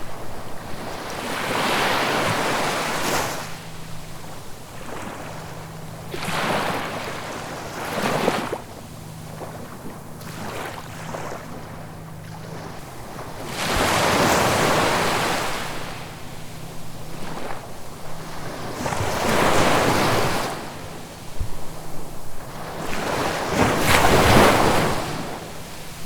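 Ocean waves breaking, in repeated rushing swells that rise and fade about six times, the loudest near the end.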